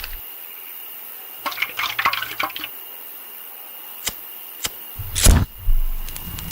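Sound effects of liquid splashing as it is poured out, then a couple of sharp clicks and a sudden loud whoosh followed by a low rumble: an accelerant being poured and set alight.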